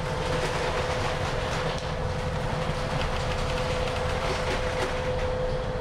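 A boat's engine running under way: a steady drone with a held hum and a dense low rumble.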